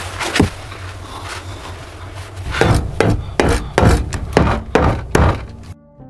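Wood being struck with a tool: two knocks at the start, then a quick run of about a dozen sharp knocks on timber. Near the end the knocking cuts off abruptly and soft string music begins.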